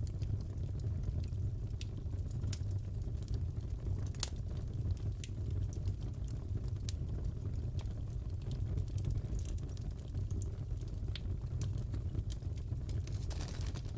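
Fireplace crackling: a steady low rumble of burning with scattered sharp pops and snaps, one louder pop about four seconds in.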